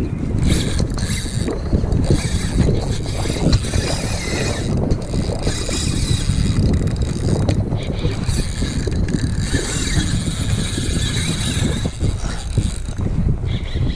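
Wind buffeting the microphone in a steady low rumble, with a shifting hiss of water around a fishing kayak.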